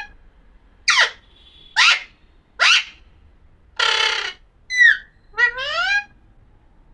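Pahadi parrot (Alexandrine parakeet) calling: three sharp downward-sweeping shrieks about a second apart, then a harsh squawk midway, a short call, and a rising call near the end.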